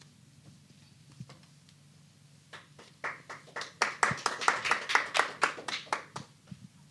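A small audience clapping, starting about two and a half seconds in after a quiet pause, then dying away.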